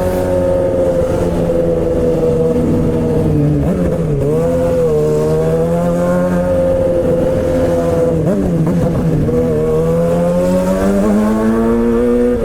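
Suzuki GSX-R600 K7 inline-four running under way through a straight-pipe exhaust with no catalytic converter, held at steady high revs. The engine pitch dips briefly twice, about four seconds in and again around nine seconds, then climbs steadily near the end.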